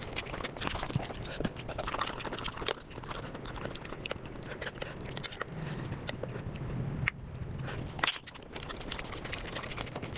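Eating sounds sped up fivefold: rapid, dense chewing, crunching and lip-smacking clicks.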